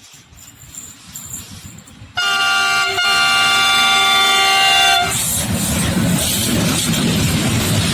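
Freight train approaching, then sounding its horn for about three seconds, a held chord of several tones, before the train passes close by with the loud rumble of wagons on the rails.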